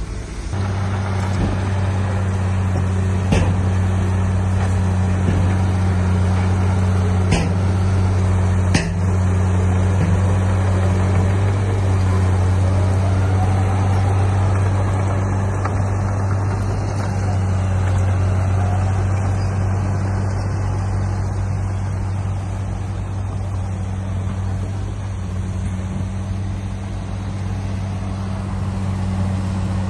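Heavy diesel engine of earthmoving machinery running steadily under load, a constant low drone. There are a few sharp metallic clanks, at about 3, 7 and 9 seconds in.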